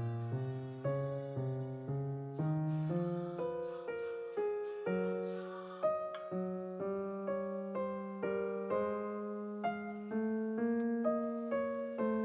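Background piano music: a gentle melody of single notes played at an even pace, about two a second.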